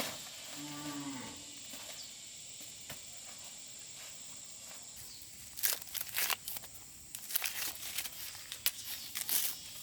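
A cow gives one short, low moo about a second in. In the second half come scattered rustling, crackling noises of something being handled.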